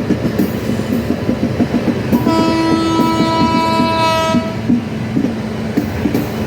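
Indian Railways train running with its wheels clattering over rail joints, and the locomotive horn sounded once, a steady blast of about two seconds, a little after two seconds in.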